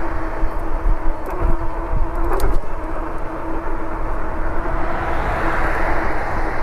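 Riding noise on a Lectric step-through e-bike: a steady rush of wind and road noise with a steady hum throughout. There is a short clatter about two and a half seconds in, and the rush grows louder near the end.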